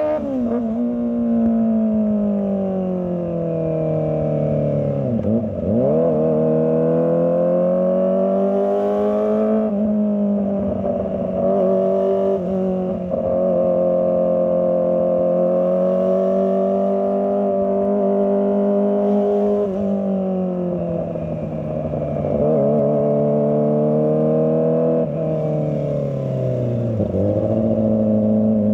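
Kawasaki ZX25R's 250 cc inline-four engine under way, its pitch rising and falling several times as the throttle is opened and closed, with sharp drops about five seconds in and near the end.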